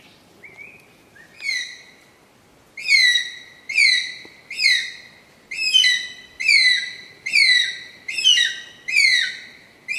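An eagle calling: a regular series of high, downward-sliding whistled screams, about one a second, after two fainter calls near the start.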